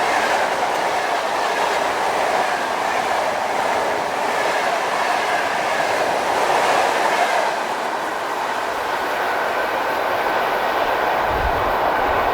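Electric train passing, its wheels running on the rails with a steady clatter and clickety-clack over the rail joints.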